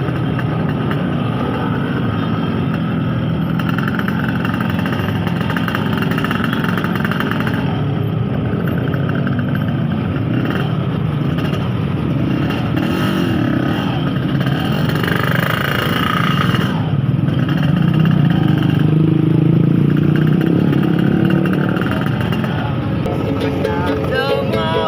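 Yamaha RX-King 135 cc two-stroke single-cylinder motorcycle engine running on the move in traffic, getting louder for a few seconds past the middle.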